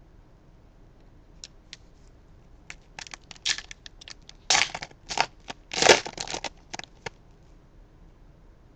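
A hockey card pack wrapper being torn open and crumpled, in a run of crinkling, crackling bursts that starts about three seconds in and stops about two seconds before the end. A few faint ticks come before it.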